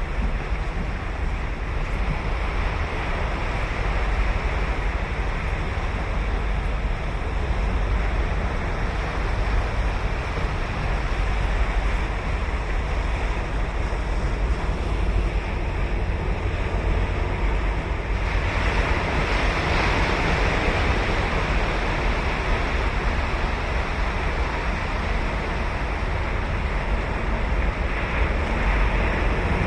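Ocean surf breaking and washing on a sandy beach, a continuous rush with deep rumble, one wave swelling louder about eighteen seconds in. Wind buffets the microphone.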